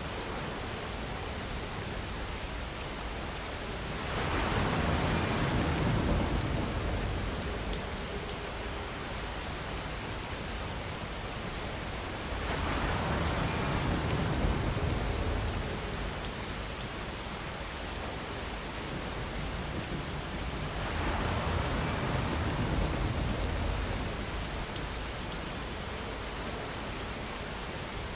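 Steady rain falling as an even hiss. About every eight seconds it swells louder for two or three seconds, three times in all.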